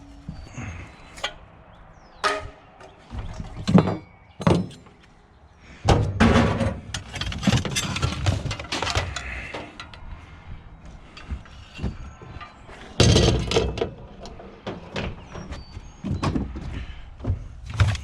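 Scrap being pulled apart and handled: irregular clanks, thunks and scraping, with longer spells of scraping and rattling a few seconds in and again near the end.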